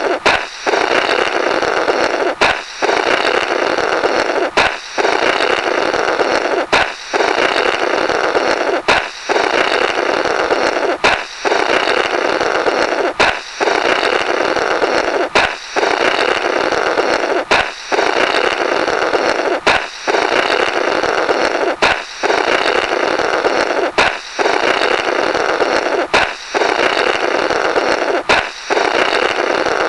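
Comical 'Blorrrt' sound effect repeating about every two seconds: a sharp balloon pop followed by a long, raspy blow through the burst rubber.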